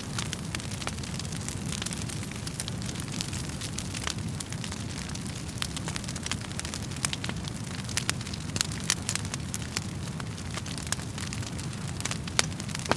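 Wood fire in a fireplace crackling, with frequent sharp, irregular pops over a steady low rumble of the flames.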